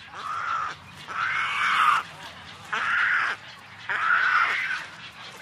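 An animal calling four times in a row, each call lasting under a second.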